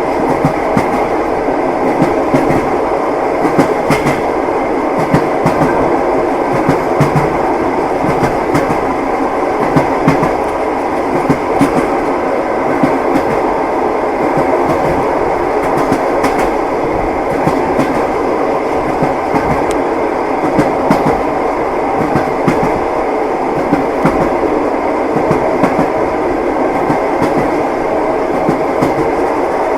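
Moving railway carriage: steady running noise with the wheels clicking over the rails.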